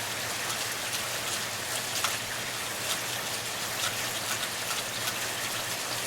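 Steady rain falling: an even hiss dotted with frequent sharp ticks of drops striking close by.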